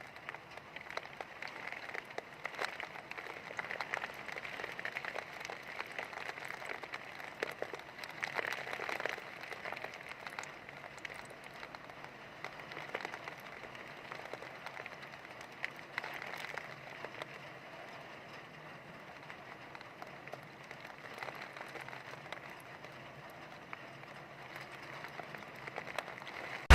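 Heavy rain falling: a steady hiss with fine pattering clicks, swelling and easing, louder in the first half and quieter toward the end.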